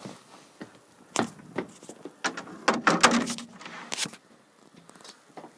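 A string of knocks and clatters from gear and fittings being handled and moved about aboard a boat, loudest in a cluster about three seconds in.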